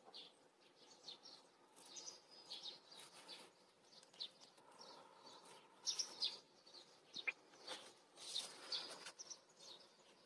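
Faint, scattered chirps of small birds: short high calls every second or so. Twice, about six seconds in and again around eight and a half seconds, a brief louder noise stands out.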